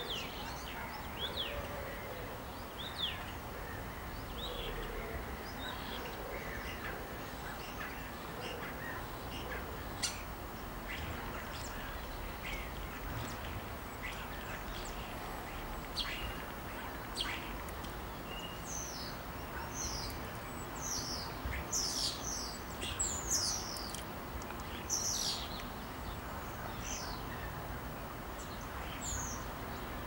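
A songbird singing: scattered short high chirps, then from about twenty seconds in a denser run of quick, high, sharply falling notes lasting several seconds, over a steady low background hum.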